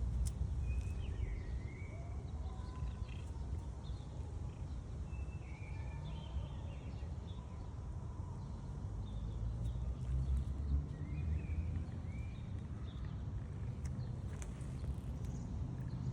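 Outdoor ambience: a steady low rumble with short, scattered bird-like chirps.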